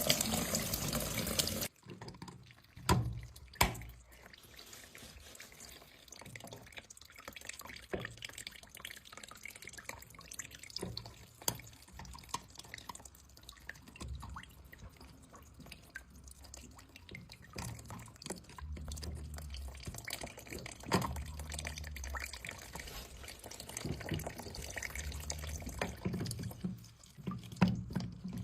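Water dripping and trickling as a washing machine's drain pump filter is cleaned, with scattered clicks and knocks of the parts being handled. A loud rush of noise fills the first second and a half and cuts off suddenly.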